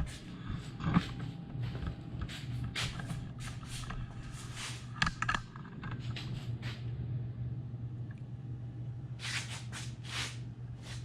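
Irregular rustling and shuffling noises, scattered through, over a steady low hum.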